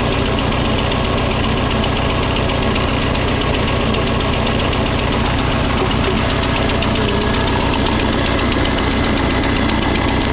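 1956 Farmall Cub's small four-cylinder flathead engine running steadily at idle, warming up after a cold start.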